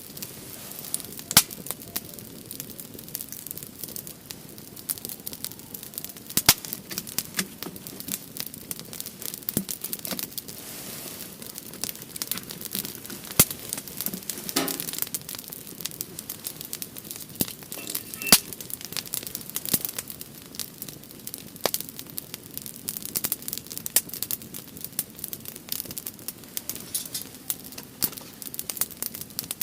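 Split firewood burning in a fire-pit stand, crackling steadily with frequent sharp pops scattered throughout.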